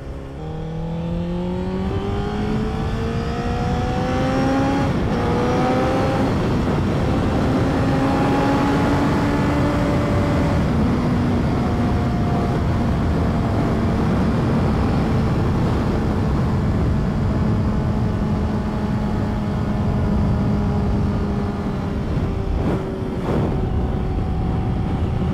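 2008 Honda CBR1000RR's inline-four engine under way: revs climb over the first ten seconds, dropping at each of several gear changes. It then holds a steady cruise, its pitch slowly sinking.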